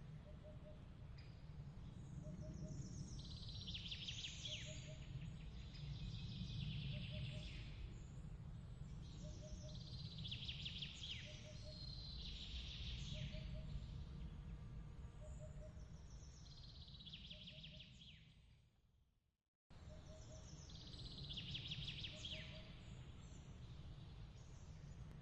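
Nature ambience track: birds chirping in short, fast trilling bursts every few seconds over a low steady rumble, with a soft low chirp repeating about every second and a half. About three quarters of the way through, the mix fades out and then cuts back in abruptly, as a looped track restarts.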